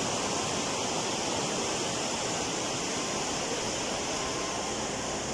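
A small stream of water rushing steadily.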